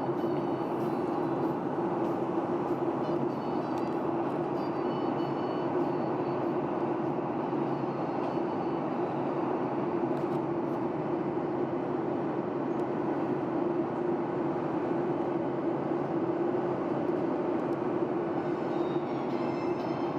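Steady cabin noise of a Boeing 737-800 airliner in flight: an even rumble of engines and airflow with a constant low hum, unchanging throughout.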